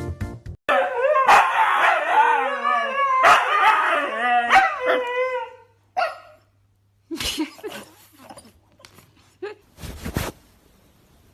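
A dog whining and yipping in a run of high, wavering cries for about five seconds, followed by a few faint knocks.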